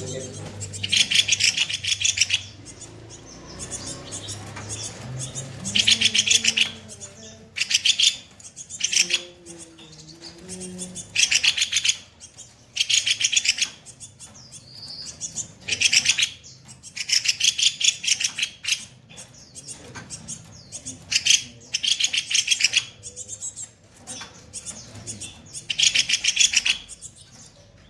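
Kopi-kopi bird singing harsh, rapid-fire rattling phrases: about ten bursts of fast-repeated high notes, each half a second to a second long, every couple of seconds.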